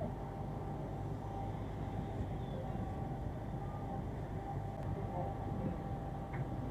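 Steady low drone of the passenger ship KM Tilongkabila's engines and machinery heard on board, with a faint steady whine above it.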